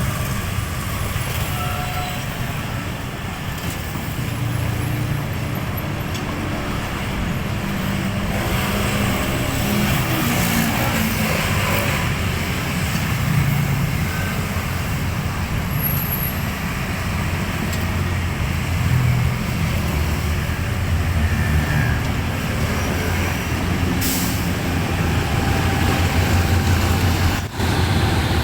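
Diesel train reversing slowly: a steady low engine rumble with rolling noise, and a short dropout near the end.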